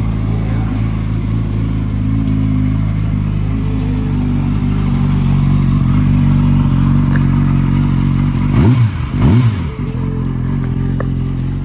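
Yamaha R6's inline-four engine idling steadily through an aftermarket SC-Project exhaust, blipped twice in quick succession near the end, its pitch jumping up and dropping back each time.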